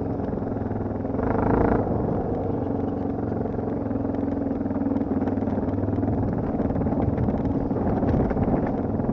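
Dirt bike engine running steadily under way, with a brief louder surge about a second in.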